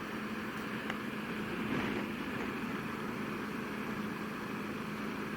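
Motorcycle running at a steady cruise, its engine note under a constant rush of wind and road noise.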